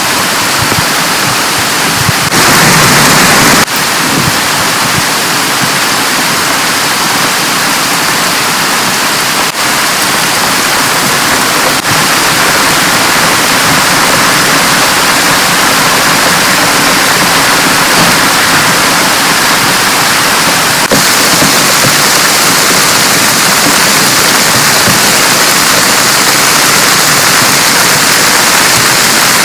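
Heavy rain pouring down in a dense, steady hiss, swelling louder for about a second a couple of seconds in.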